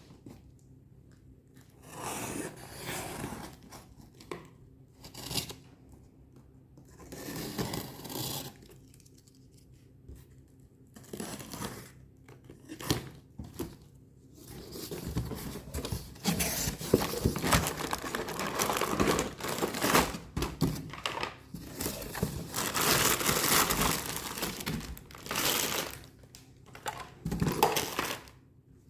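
Toy packaging being torn open and crinkled by hand, in short bursts at first and then almost continuously through the second half, with sharper crackles among the rustling.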